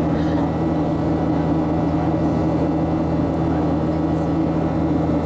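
Boeing 737 cabin noise in flight: a steady drone of engine and airflow with a constant low hum, unchanging throughout.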